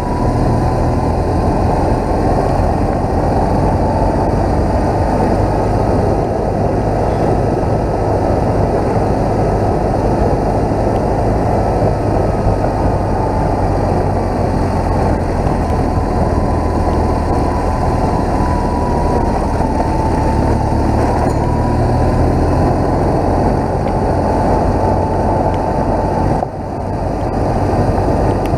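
BMW motorcycle riding at a steady pace: a steady engine note under heavy wind rush. Both dip briefly about two seconds before the end.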